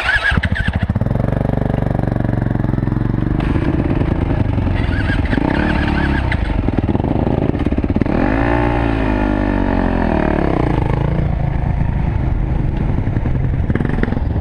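Yamaha WR450F dirt bike's single-cylinder four-stroke engine running under way, its revs rising and then falling about eight seconds in.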